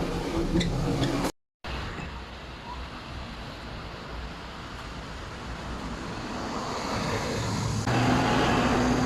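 Motor vehicle and road traffic noise. There is a brief cut about a second and a half in, and near the end it grows louder with a steady low engine hum.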